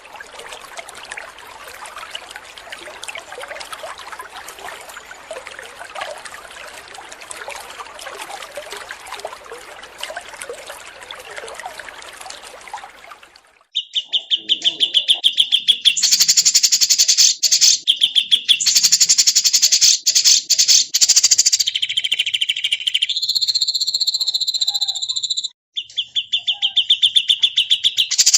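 Songbirds recorded for bird-song training: for the first half, a dense twittering chorus of many small birds; from about halfway, one bird's loud, very fast, even trill, high-pitched, in long phrases broken by brief pauses.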